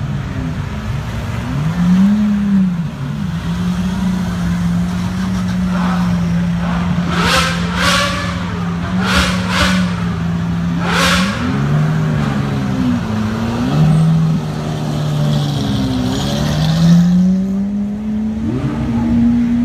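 Supercar engine running and being revved, its pitch dipping and rising several times. Five short, sharp noises come in quick succession around the middle.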